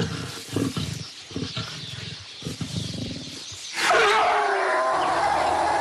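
Wild animal sounds: a series of low, rough growls, then about four seconds in a loud, long drawn-out call that falls slightly in pitch.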